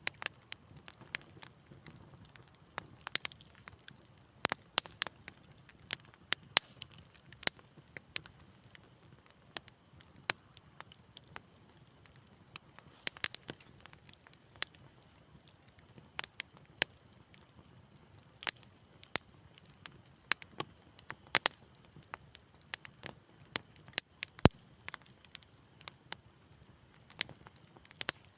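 Wood fire crackling in a fireplace: irregular sharp pops and snaps, several a second, over a soft hiss, with one louder pop near the end.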